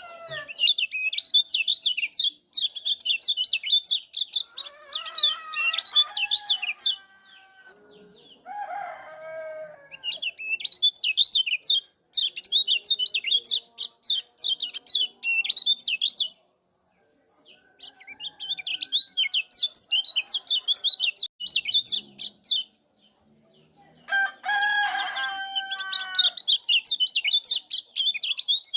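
Kecial kuning (a white-eye) giving fast runs of high 'ciak' chirps in four bouts with short pauses between them. A few lower, drawn-out calls from another bird sound underneath.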